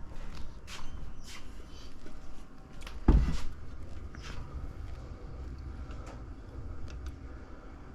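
Transmission parts being handled on a workbench: scattered light clicks and knocks, with one heavier thump about three seconds in.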